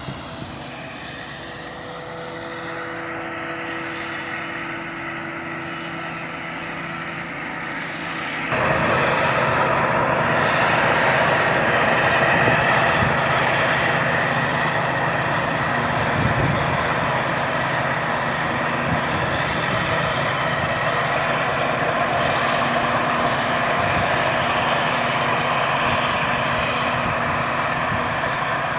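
Claas Jaguar 870 forage harvester running steadily with its engine and machinery droning. It gets suddenly louder about eight seconds in.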